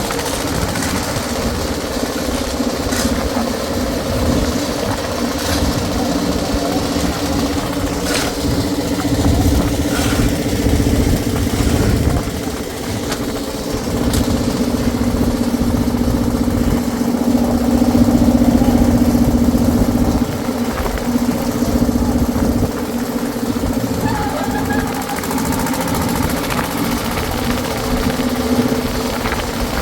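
Engine of a concrete mixer running steadily, with a few sharp knocks in the first third.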